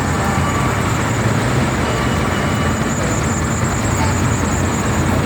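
Steady rumble of vehicle engines and street traffic noise.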